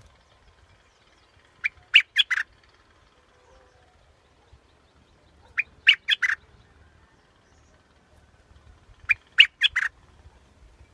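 A bulbul singing the same short phrase three times, about every four seconds. Each phrase is four or five quick, clear notes.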